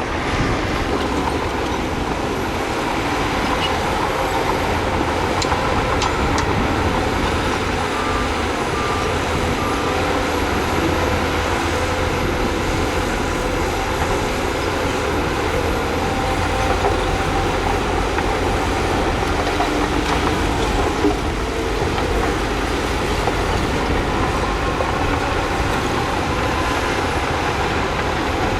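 Heavy diesel construction machinery running steadily under load, with a constant low engine drone and the noise of working equipment. A few short high beeps come about eight seconds in.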